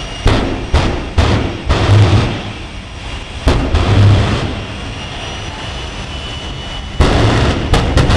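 Westinghouse J-34 turbojet engine running, with a steady rush broken by sudden loud blasts: four in quick succession in the first two seconds, a longer one around three and a half seconds, and a sustained loud surge from about seven seconds.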